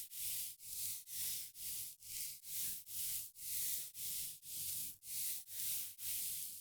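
Soft, rhythmic swishing strokes, about two a second, as of fabric or a pad rubbing close to the microphone during a makeup-removing skincare routine.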